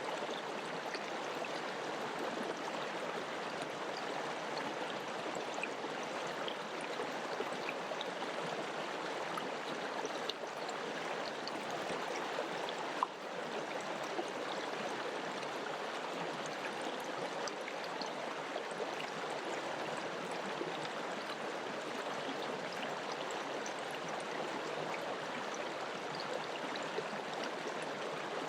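Mountain river rushing over rocks: a steady, even rush of flowing water with small splashes and gurgles, one brief sharper splash about halfway through.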